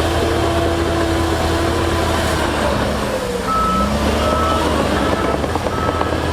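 Heavy diesel earthmoving machinery running steadily, its pitch shifting around the middle. From about halfway in, a reversing alarm starts sounding, one high beep about every 0.7 s.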